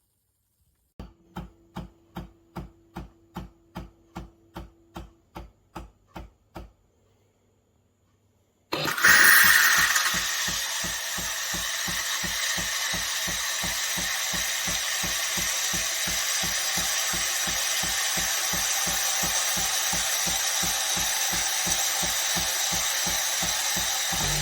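Philips 5400 Series bean-to-cup espresso machine at work: its pump pulses about two and a half times a second for several seconds, stops, then a loud steady hiss starts with a fast pump beat running under it.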